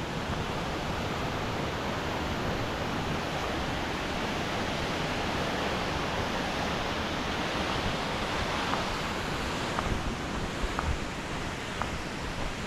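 Steady rush of a mountain waterfall, water tumbling over rocks, an even roar with no change in level.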